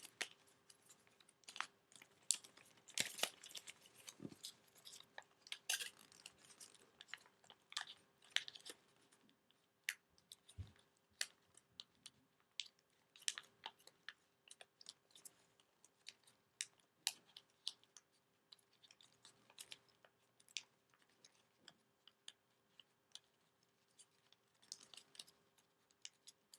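Origami paper being pleated and creased by hand along the wing's folds: scattered crisp crackles and taps of paper, irregular and frequent.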